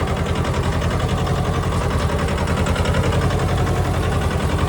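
Farm tractor engine idling steadily, an even, rapid pulsing.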